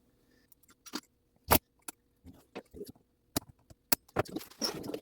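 Irregular sharp clicks and taps of small metal clock parts and tools being handled and fitted during reassembly of a clock movement, with one louder click about one and a half seconds in and a busier run of clicks near the end.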